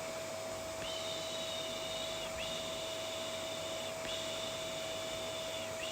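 Vacuum cleaner running steadily: an even hiss with a constant whine. Over it come three long high-pitched tones, each lasting about one and a half seconds and sliding in and out at its ends.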